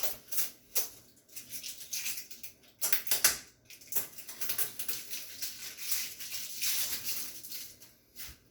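Adhesive tape and protective plastic film being peeled off a new stainless steel microwave oven: a run of irregular crackling rips and rustles.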